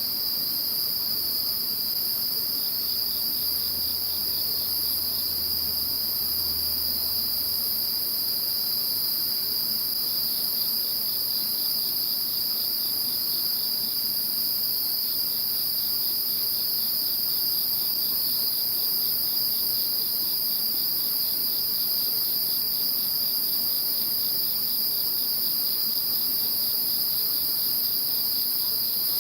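A chorus of crickets and other insects calling steadily, with one continuous high trill and a still higher whine above it. A quicker, pulsed chirping a little lower in pitch drops in and out several times.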